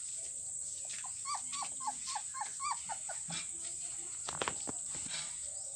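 Rottweiler puppy whimpering: a quick run of about seven short, high yelps, roughly four a second, followed a little later by a couple of sharp knocks.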